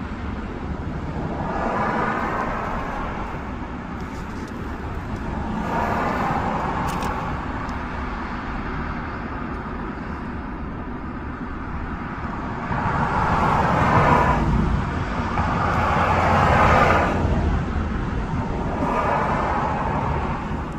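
Road traffic: a steady low rumble with vehicles passing one after another, each a rising and falling swell of tyre and engine noise lasting a second or two.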